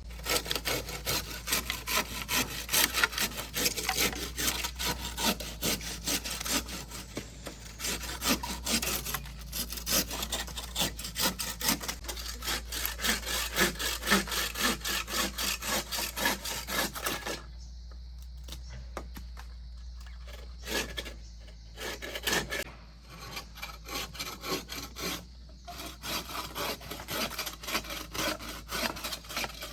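Wood being hand-sawn: fast, rasping back-and-forth strokes. They stop for a few seconds about two-thirds of the way through, then go on in shorter runs.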